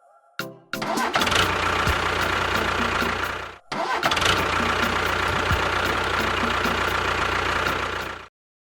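An engine starting and running, heard twice: it catches about a second in, cuts off abruptly around three and a half seconds, starts again straight away and runs until it stops suddenly near the end.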